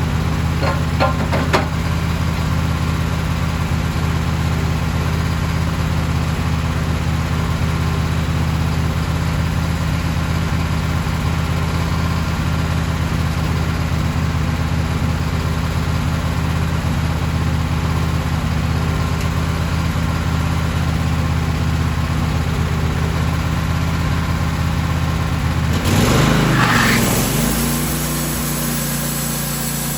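Sawmill engine running steadily, with a few clicks at the start. About 26 seconds in there is a brief louder rush of noise, and the engine's pitch drops and settles to a lower, quieter run.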